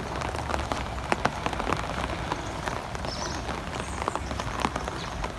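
Rain falling steadily, with many sharp drop ticks scattered through it over a low, even rumble.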